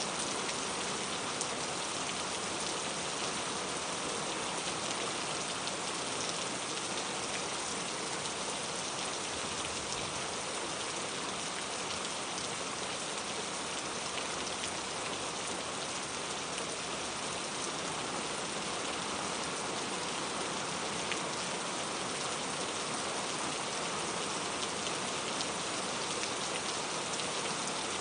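Steady rain falling on a surface: a dense, even hiss of many fine drops, with no change in intensity.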